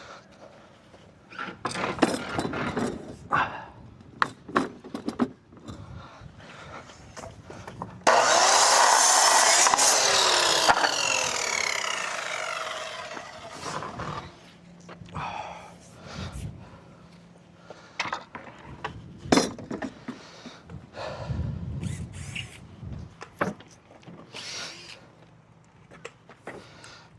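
A power saw starts suddenly about eight seconds in, cuts through a composite decking board for a couple of seconds, then winds down with a falling whine. Scattered knocks and clicks come before and after the cut.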